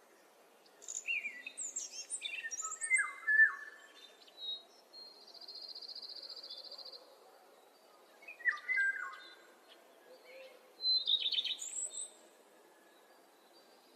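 Songbirds singing in spring: several quick phrases of falling, stepped whistled notes, and a steady trill of about two seconds in the middle. Faint steady background noise lies underneath.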